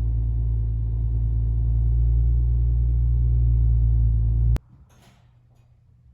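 Subaru Outback 3.6R's flat-six engine running steadily through its exhaust, a low even drone that cuts off abruptly about four and a half seconds in.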